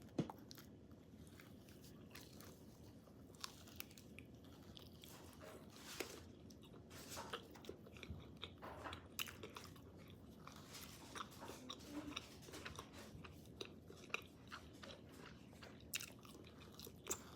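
Faint, irregular crunching and chewing as someone bites into and eats crispy fried food: short crisp crunches, sparse at first and coming more often from about six seconds in.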